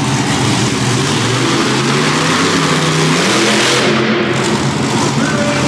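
Monster truck engine running loudly, revving up in pitch about three seconds in, over a dense wash of noise.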